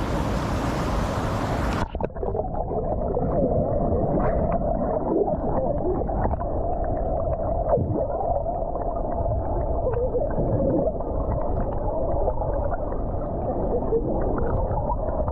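Rushing water in the open air until about two seconds in, when the microphone goes under the surface. From then on the sound is muffled underwater rushing and gurgling of the spring pool's water, with scattered faint clicks.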